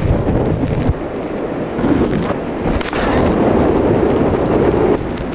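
Blizzard wind buffeting the camera microphone: a loud, dense rumble that swells and eases in gusts.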